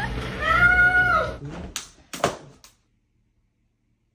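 A dog's high whine: a short chirp, then one drawn-out cry that rises and falls over about a second. A few sharp clicks follow, then the sound cuts to silence.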